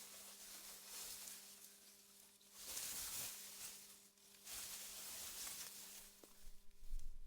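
Faint wind rustling through meadow grass, swelling in two gusts and dying back, over a steady low hum; a low rumble starts near the end.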